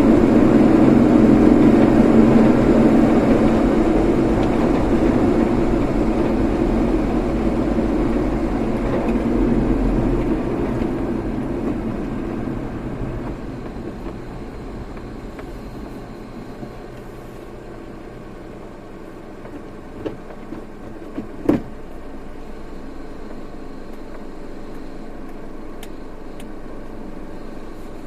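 Car running on the road, its road and engine noise loud at first, then dying away over about fifteen seconds to a low steady hum, as when the car slows down. A few sharp clicks come about twenty seconds in.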